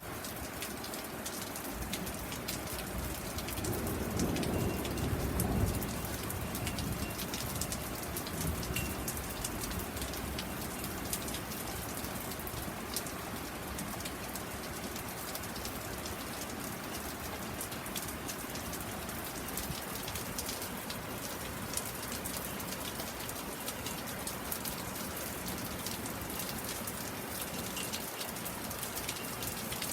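Steady rain falling during a thunderstorm, with close drops ticking sharply, and a low rumble of thunder swelling and fading about four to six seconds in.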